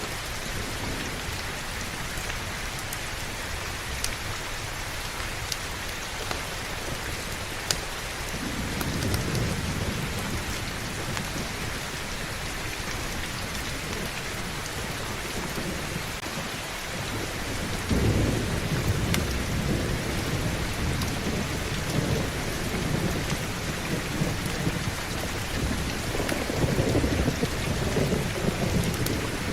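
Heavy, steady rain, with thunder rumbling in: a low rumble builds about a third of the way through, grows much louder about two-thirds in, and swells again near the end. A few sharp clicks stand out over the rain early on.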